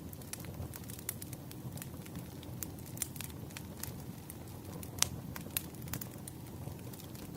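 Wood fire crackling: a steady low rumble of burning logs with many irregular sharp pops and snaps, the loudest pop about five seconds in.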